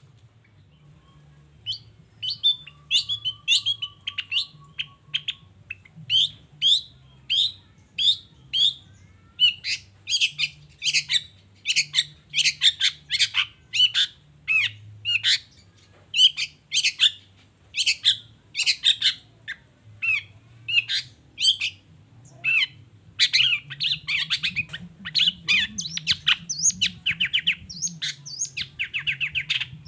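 Long-tailed shrike (cendet) singing: a long run of short, sharp, high calls repeated about one to two a second, growing denser into a rapid chattering flurry near the end. A brief steady whistled note sounds a few seconds in, over a faint low hum.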